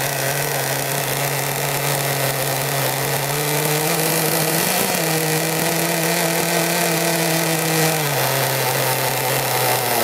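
Small nitro glow engine of a modified Pro Boat Blackjack 26 RC boat running out of the water, with a steady buzzing note. The revs climb slightly about four seconds in, with a brief blip, hold, then drop back about eight seconds in.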